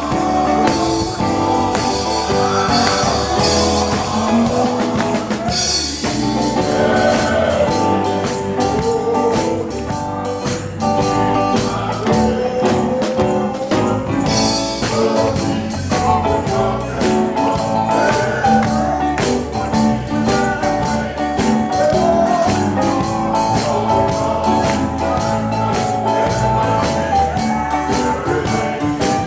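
Gospel quartet music from a band with electric guitar and drum kit playing a steady beat, with a gliding melody line over it.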